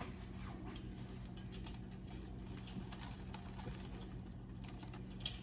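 Faint, scattered light clicks and taps of hands handling a tumbler and fitting a small charm onto it, over a steady low hum.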